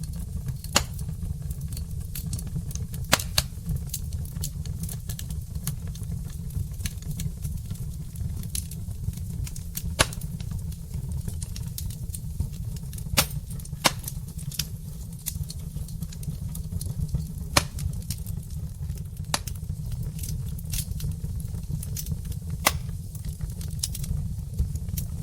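Wood fire burning in a fireplace: logs crackling with irregular sharp pops, a few louder than the rest, over a steady low rumble.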